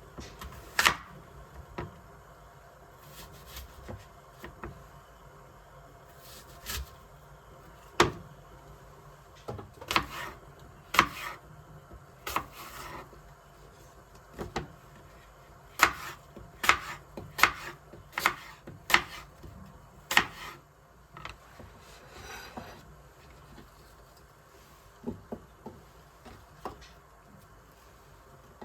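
Irregular sharp clicks and knocks of household objects being handled and set down, over a faint steady room hum.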